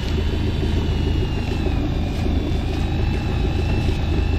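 Boat engine running steadily with a low rumble, with a thin, slightly wavering high whine running over it.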